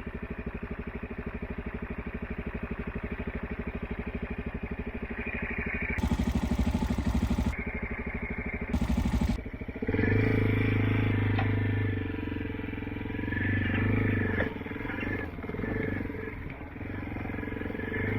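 Motorcycle engine running with a steady, fast pulse, then from about ten seconds in growing louder as the bike pulls away, its note swelling and easing several times. Two short bursts of hiss come at about six and nine seconds.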